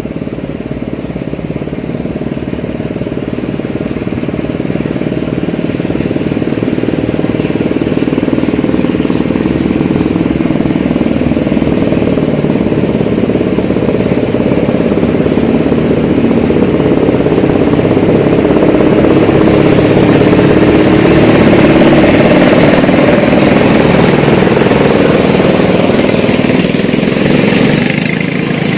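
Small petrol engines racing at high revs, running continuously and growing louder over about twenty seconds before easing off near the end.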